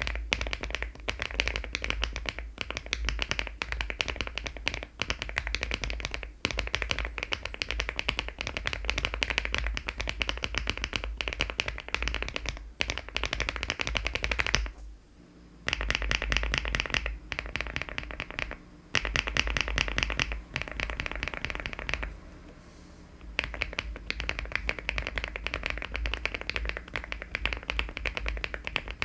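Fast continuous typing on a mechanical keyboard: an aluminium-cased LEOBOG Hi75 fitted with HMX linear switches and Cherry-profile keycaps. Keystrokes come in dense runs, with brief pauses about 15 and 22 seconds in.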